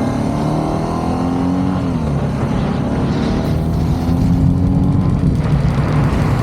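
BMW R nineT's boxer-twin engine pulling up through the revs as the bike accelerates. It drops in pitch at a gear change about two seconds in, climbs again, and shifts once more a little after five seconds.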